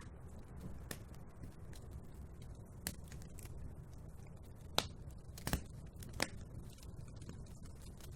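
Wood fire burning in a fireplace: a steady low rumble with a handful of sharp crackles and pops, the loudest a little before the middle and another just after.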